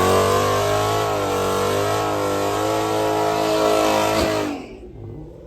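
A car engine at full throttle, accelerating hard in a drag race, its pitch rising and falling, then fading quickly a little over four seconds in.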